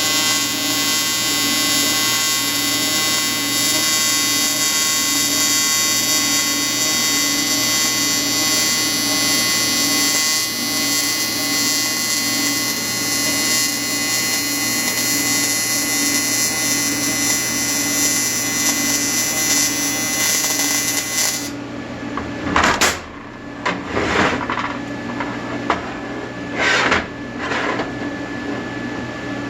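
Electric welding arc buzzing steadily, cutting off suddenly about two-thirds of the way through. A few short, loud noises follow over a lower hum.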